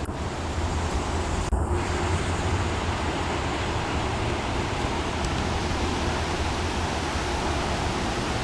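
Steady rushing hiss of a thunderstorm's wind and rain as the downpour moves in.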